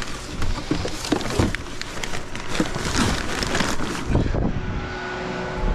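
An engine idling steadily, with irregular rustling and clattering knocks over it that die down about four seconds in.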